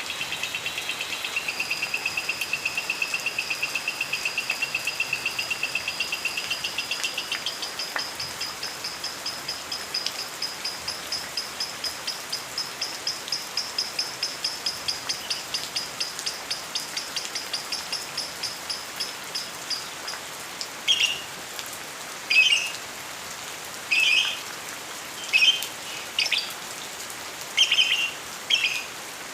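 Lovebird chirping: a long run of rapid, even chirps, several a second, for about twenty seconds, then louder separate harsh chirps every second or two. Steady rain hiss underneath.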